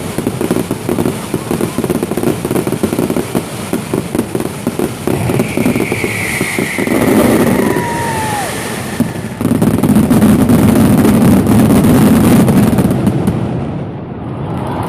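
Fireworks display: rapid crackling bursts, then a falling whistle, then a louder, denser stretch of noise that fades near the end.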